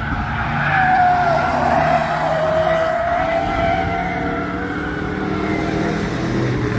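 Bomber-class stock cars racing on the track, engines running at speed, with a long tire squeal about a second in as cars work through a corner.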